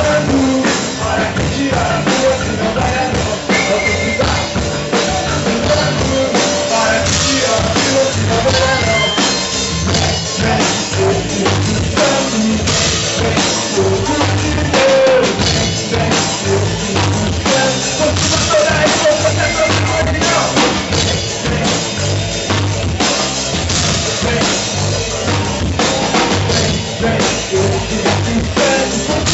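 Band music with a steady drum-kit beat, bass drum and snare prominent.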